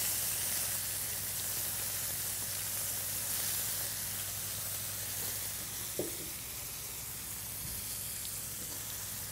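Breaded flounder fillet and red onions frying in hot oil in a pan, a steady sizzle that eases off slightly. A small knock about six seconds in.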